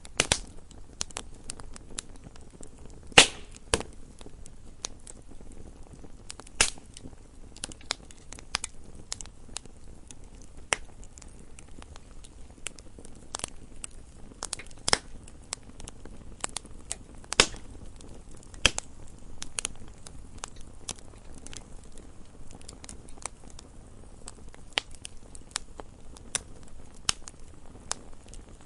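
Wood fire burning in a fireplace, crackling with irregular sharp pops and snaps over a low steady hiss; the loudest pop comes about three seconds in.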